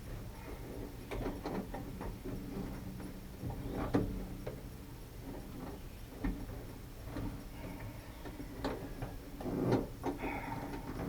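Irregular light clicks and knocks from hand work on a pickup truck door's handle mechanism, with a sharper knock about four seconds in and a louder cluster of knocks near the end.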